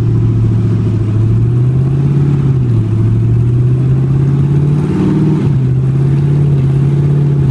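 GM LS9 6.2-litre supercharged V8 running steadily on a test stand, its pitch rising and dropping a little a few times as the 6L90 six-speed automatic is run up through the gears.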